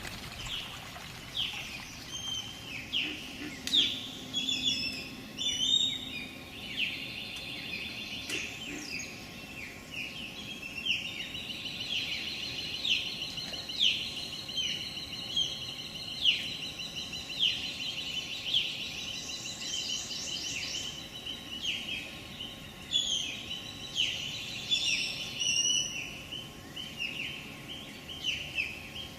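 Birds chirping and calling, many short high notes falling in pitch, overlapping and repeating about once or twice a second.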